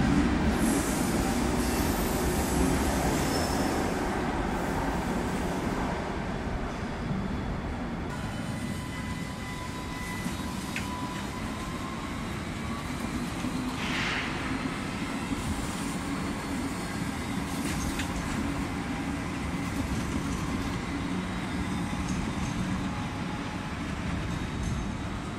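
Electric double-deck suburban train running past an underground platform, loudest at the start and fading away. Then a modern low-floor light rail tram rolling along street track, with a short high squeal about halfway through.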